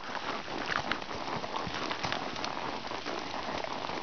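Steady rain falling, a dense hiss peppered with many small, irregular drop impacts.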